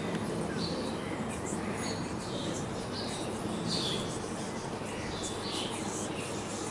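Birds chirping in short, high calls, scattered every second or so, over steady low background noise.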